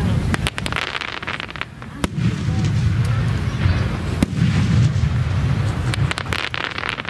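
Aerial firework shells bursting: sharp bangs about two and four seconds in, with clusters of quick cracks near the start and near the end, over a steady low rumble.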